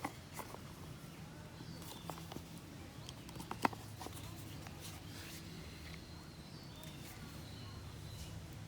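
Scattered small clicks and knocks, the sharpest about three and a half seconds in, with a faint thin high tone coming and going.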